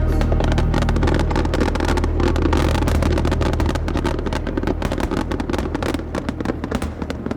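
Fireworks crackling: a dense run of sharp pops and crackles over a deep rumble, thinning out and fading toward the end.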